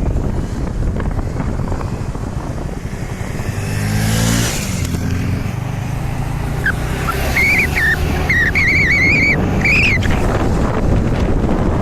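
Road traffic noise with wind rumble on the microphone, a vehicle's engine passing about four seconds in, and a warbling high-pitched tone from about seven to ten seconds in.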